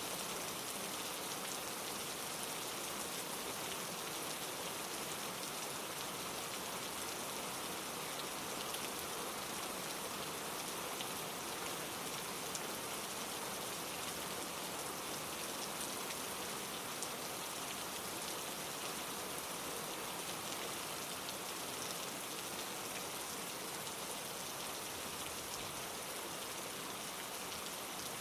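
Steady rain pattering on leaves, an even hiss with scattered small drop ticks.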